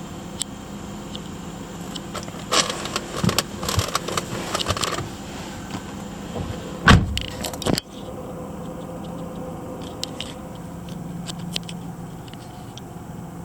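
1999 Jaguar XJ8's V8 idling steadily after a cold start. Clinking and rattling come from about two and a half to five seconds in, and there is one loud thump about seven seconds in.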